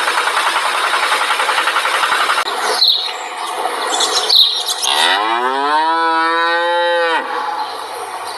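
A small motor buzzes rapidly for the first couple of seconds and cuts off, followed by a few clicks. Then a cow moos once, rising at first and then held for about two seconds.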